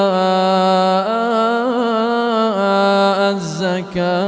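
A male Quran reciter's voice holding a long melodic vowel in tajwid-style recitation. It is a lengthened madd on 'wa-ītā'' before 'az-zakāh', sustained with ornamented turns of pitch and a brief break near the end.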